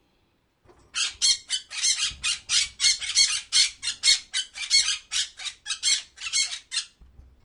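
Parrot squawking: a rapid run of short, shrill calls, about three or four a second, starting about a second in and stopping near the end.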